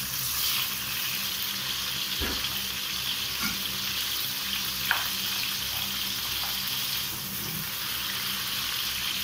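Fish loins and sliced boletus mushrooms sizzling steadily in hot oil in two frying pans, while a wooden spatula stirs the mushrooms with a few light knocks against the pan.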